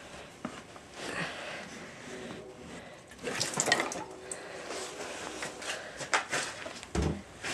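Gasoline being poured to prime a small mini-bike engine, a splashing trickle in two stretches, with a few handling knocks and a low thump near the end.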